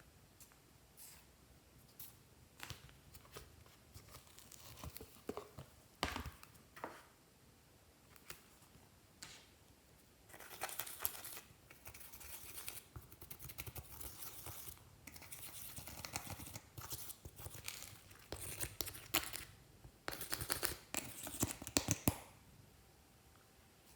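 Glossy slime being worked by hand: scattered sticky clicks and pops at first, then from about halfway through a dense run of crackling and popping that stops shortly before the end.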